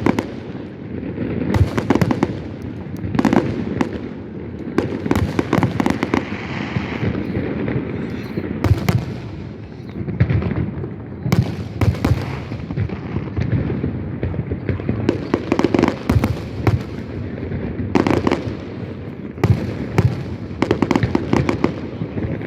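Fireworks display: repeated sharp bangs of bursting shells, some in quick clusters of crackle, over a continuous low rumble of further bursts.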